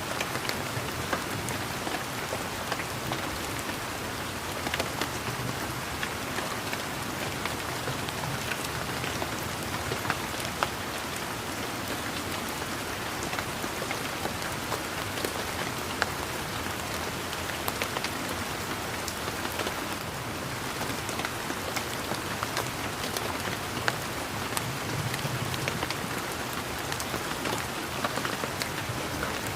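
Steady rain pattering on leaves and garden surfaces, a continuous hiss dotted with the ticks of individual drops.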